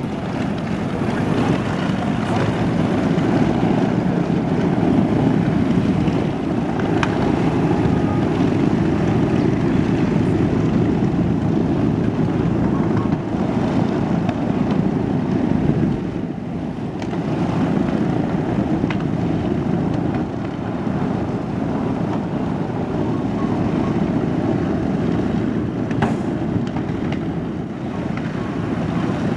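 A steady, loud engine drone with wind noise on the microphone; it dips briefly around the middle.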